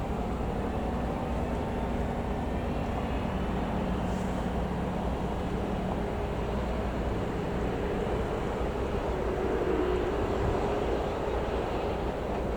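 Boeing 747-428 jet engines running steadily: an even, unbroken rumble with a faint whine on top.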